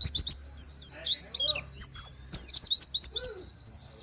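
Pleci (white-eye) singing a fast, high song of quick downward-slurring whistled notes in rapid clusters with short pauses, including canary-like 'wit wit' phrases.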